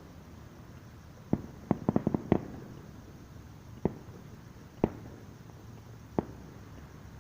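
Distant fireworks booming: one bang, then a fast run of about six bangs around two seconds in, then three single booms a second or so apart.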